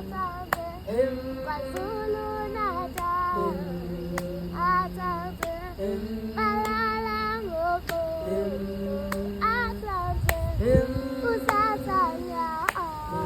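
A high voice singing a slow melody of long, held notes that move in steps, with sharp clicks between the phrases.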